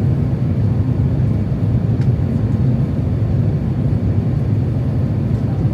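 Steady low rumble of engine and airflow noise inside the cabin of an Airbus A350-900 on approach to land.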